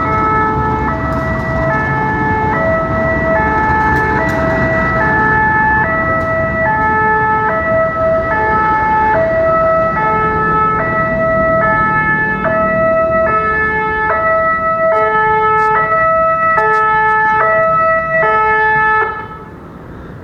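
Electronic railway level-crossing warning alarm sounding a repeating pattern of alternating tones, over a steady low rumble. The alarm cuts off near the end.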